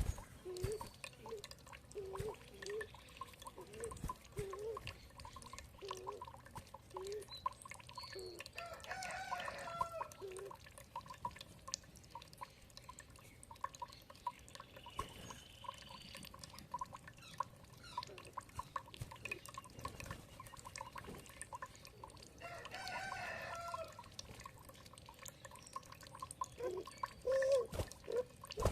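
A rooster crows twice, once about nine seconds in and again some fourteen seconds later, each crow lasting about a second and a half. Under it, water drips and trickles, and short low calls repeat about once a second in the first ten seconds and again near the end.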